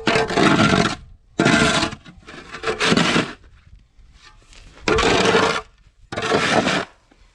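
A snow shovel scraping wet snow out of a cattle feed bunk in five separate strokes, each lasting about half a second to a second.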